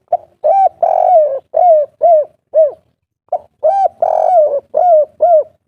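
Spotted dove (tekukur) cooing: two song phrases of rounded coos. Each phrase builds to a long coo and ends in three short 'kuk' notes, the 'kuk 3' song type.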